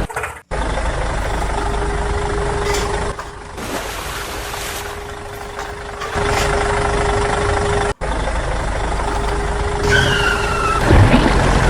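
Heavy truck engine running steadily with a held hum, broken off abruptly twice as if cut. A short falling whine comes about ten seconds in.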